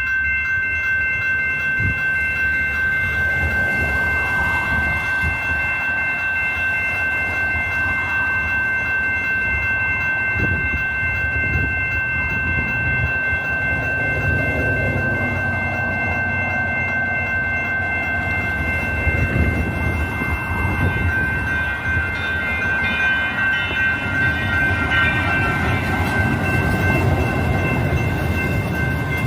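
Light rail train on the track, a steady low rumble, with three high steady tones held throughout. Further high, slightly wavering tones join from about two-thirds of the way in for several seconds.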